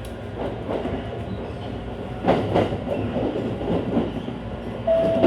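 ET127 series electric train running on the rails, with a few clacks over the rail joints about two seconds in. A steady tone comes in near the end.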